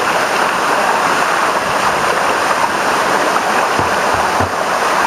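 Small waterfall with water pouring steadily into a pool: a loud, even rush of falling water.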